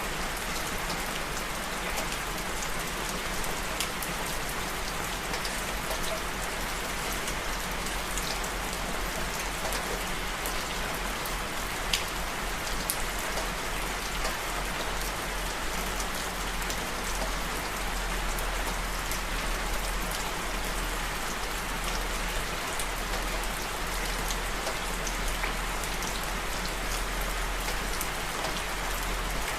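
Steady rain falling, an even hiss with scattered individual drops ticking on a surface, one sharper tick about twelve seconds in.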